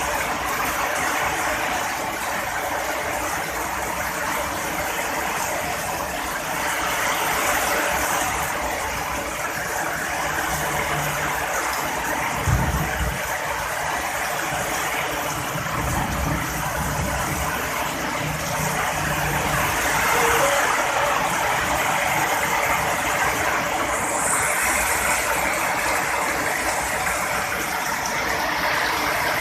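Heavy rain falling steadily, with a low rumble of thunder starting about twelve seconds in and fading over several seconds.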